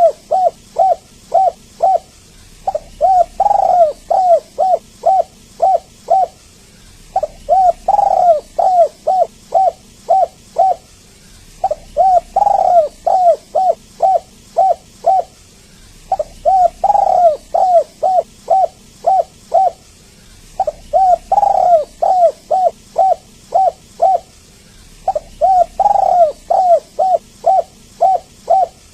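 Spotted dove (tekukur) cooing in repeated phrases: each phrase is a run of quick coos around one louder, drawn-out coo, lasting about three and a half seconds and coming back every four and a half seconds, six times over. It is a lure call recording of the kind played to set caged doves singing.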